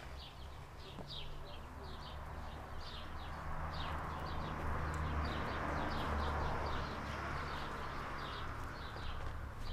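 Small birds chirping in many short, quick notes, over a steady low rumble of outdoor background noise.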